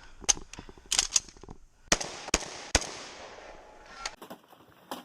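A string of rapid gunshots, about six in the first three seconds, some less than half a second apart, fired during a 3-gun stage run. The firing stops about three seconds in.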